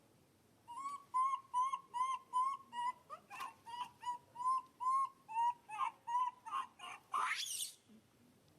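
Baby monkey giving a quick run of short, even squeaks, about two to three a second, that ends about seven seconds in with one louder squeal sweeping sharply upward.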